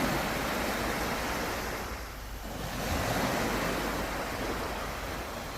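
Sea waves breaking and washing onto the shore, the surge swelling, easing about two seconds in, then swelling again.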